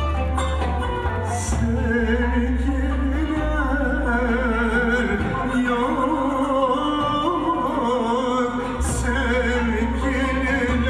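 A Turkish song: a voice sings an ornamented, wavering melody over instrumental accompaniment with a steady low bass.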